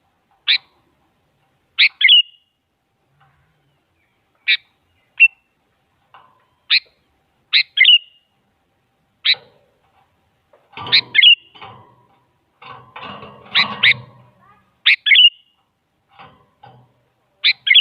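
Sooty-headed bulbul (kutilang) giving a series of short, sharp calls, about a dozen, many ending in a quick second note. A stretch of lower, rough noise runs under the calls in the middle.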